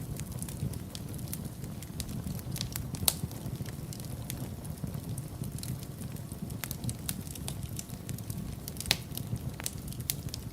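Wood fire burning in a fireplace: a steady low rumble of flames with frequent small crackles and a couple of louder pops, about 3 and 9 seconds in.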